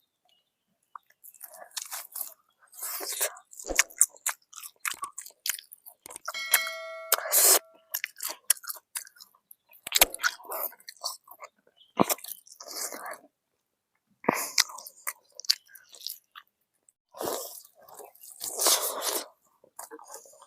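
A person biting and chewing fried chicken: irregular crunches, separated by brief gaps. About six and a half seconds in there is a short pitched sound.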